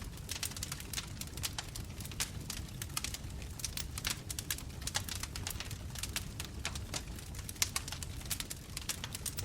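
A bonfire crackling: many irregular sharp pops and snaps over a steady low rumble of the burning flames.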